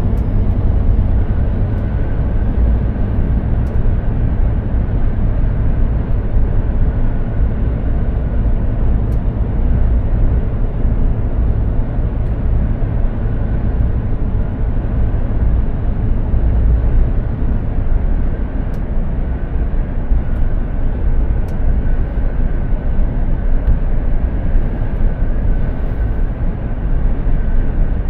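Mercedes-Benz Actros 2763 truck with its straight-six diesel driving steadily at road speed. The engine and tyres make a continuous low drone, with a faint high whine running over it.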